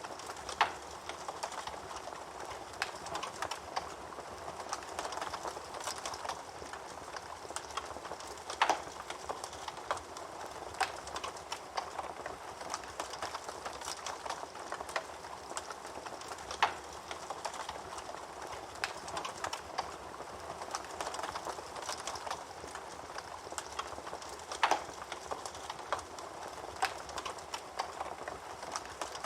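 Wood fire burning in a fireplace with a steady crackle and hiss, broken by a few louder sharp pops, about one every eight seconds.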